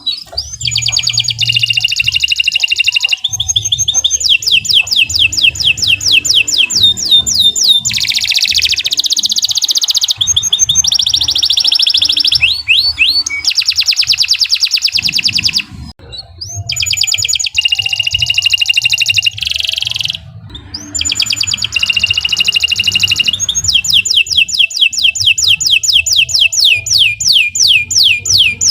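Domestic canary singing a long, loud song of fast trills, quick runs of repeated rising notes and held whistles, broken by two short pauses, one about halfway through and another a few seconds later.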